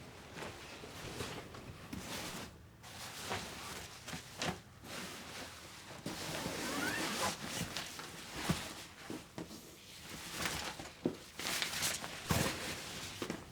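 Household handling sounds: irregular rustling and raspy scraping, zipper-like at times, with several sharp clicks and knocks, the loudest in the second half.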